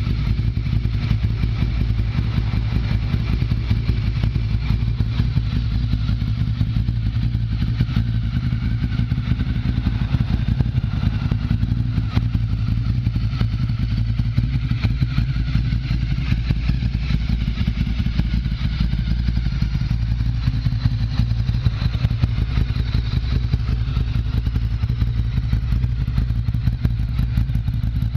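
Ducati Monster 1100 EVO's air-cooled desmo L-twin running through a full Termignoni exhaust, idling steadily with a deep, even pulse.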